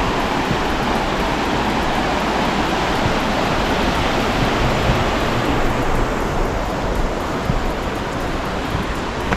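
River water rushing steadily below the bridge, a loud constant rush. It grows slightly less hissy from about six seconds in.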